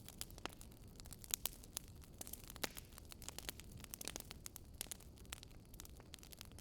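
Wood fire crackling: irregular snaps and pops, a few louder than the rest, over a low steady rumble.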